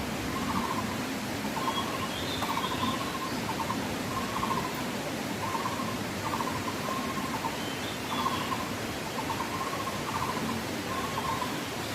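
Short trilled animal calls repeating about once a second over a steady background hiss, with a few fainter, higher calls now and then.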